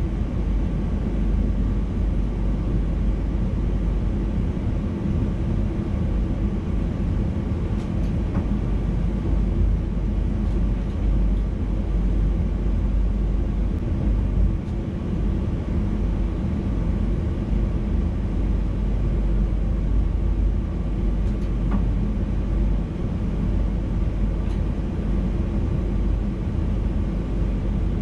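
Steady rumble of a VIRM double-deck electric intercity train running along the line, heard from inside the driver's cab, with a couple of faint clicks.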